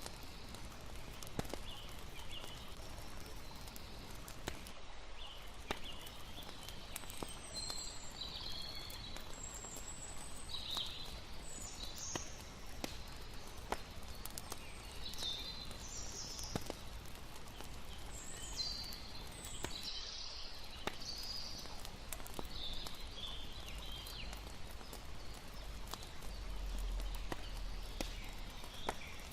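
Layered night ambience: a campfire crackling with scattered sharp pops, irregular short high chirps from night creatures, and a steady low wash of water underneath.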